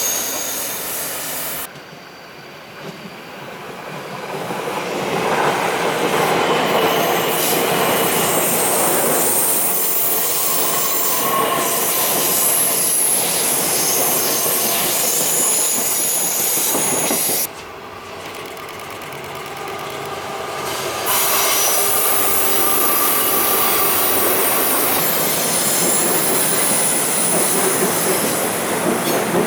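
A train passing close by, with a steady rumble and high squealing tones from the wheels on the rails, and some clickety-clack. The sound cuts abruptly twice, about two seconds in and again after about seventeen seconds, as one recording gives way to the next.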